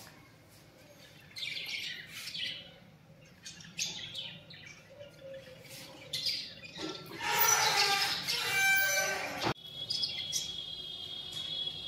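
Birds chirping and calling in scattered bursts, busiest and loudest about two-thirds of the way through. The sound cuts off abruptly, and a steady high-pitched tone follows.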